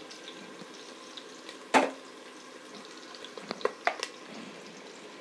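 Onions, green chillies and whole spices sizzling steadily in hot oil in a steel pot. A spatula knocks sharply against the pot once a little under two seconds in, with a few lighter taps near the end.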